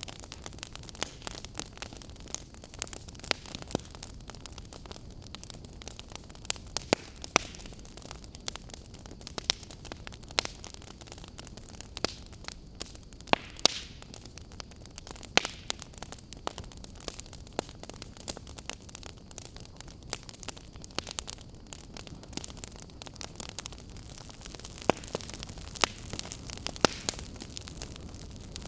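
Wood fire crackling in a fireplace: irregular sharp pops and snaps, a few every second, over a steady low hiss and rumble.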